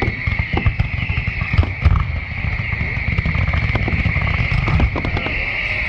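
Aerial fireworks going off in a dense run: many quick crackling pops and bangs with a low rumble of booms, over a steady high hiss.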